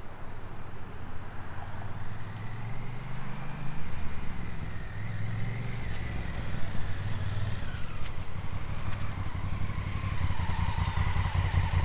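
Honda Africa Twin CRF1000L's parallel-twin engine running, its note rising and falling several times as the bike revs and pulls.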